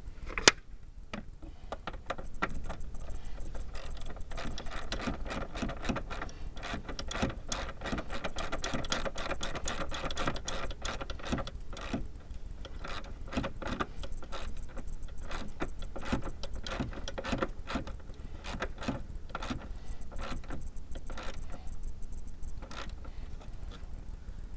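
Small metal clicks and clinks, quick and irregular, from hand tools, a wrench and socket, working on bolts, with one sharp knock about half a second in.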